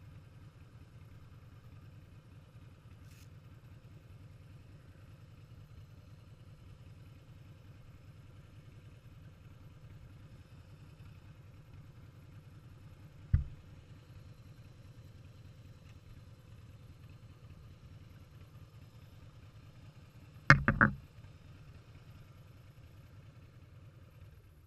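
Motorcycle engine running with a steady low rumble. One sharp knock comes about halfway through, and a quick cluster of three or four knocks follows about 21 seconds in.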